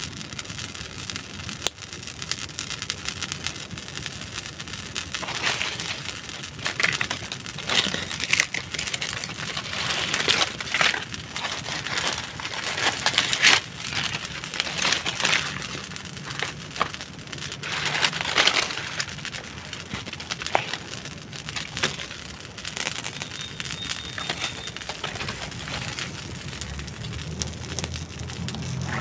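Dry wood burning in a campfire, crackling steadily with frequent sharp pops and snaps, busiest through the middle of the stretch.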